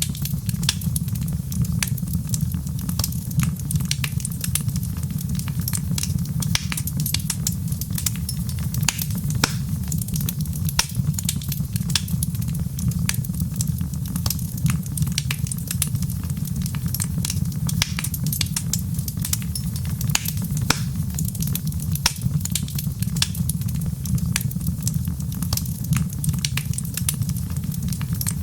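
Crackling wood fire in a fireplace: many irregular pops and crackles over a steady low rumble.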